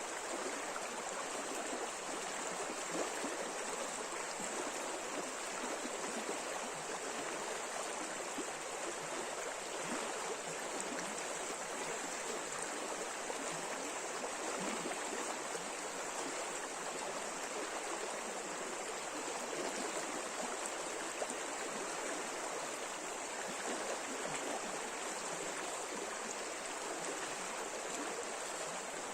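River water rushing steadily over shallow riffles: an even, unbroken rush of flowing water.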